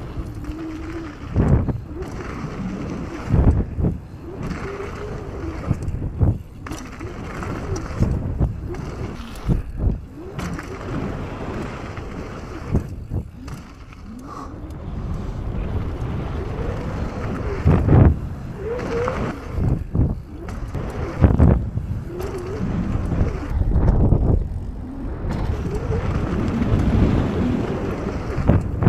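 Downhill mountain bike riding heard from a bike-mounted action camera: tyres rumbling over a dirt trail, wind noise on the microphone, and frequent knocks as the bike hits bumps and landings.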